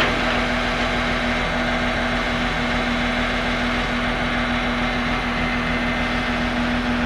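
A heavy engine running steadily at an even speed, with a constant hum and no change in pace.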